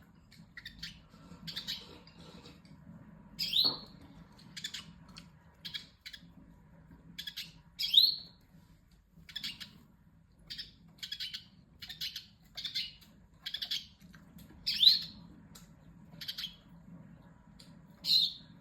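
Pet yellow songbird calling in its spring breeding season: a string of short, sharp chirps, about one or two a second, broken every few seconds by a louder call that sweeps down in pitch. A faint steady low hum runs underneath.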